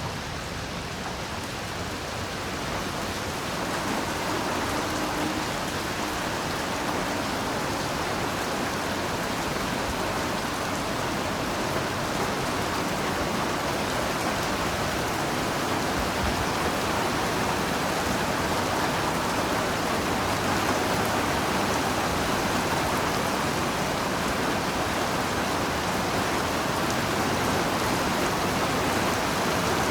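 Heavy rain falling steadily, a dense even hiss of many drops; it grows a little louder over the first few seconds and then holds steady.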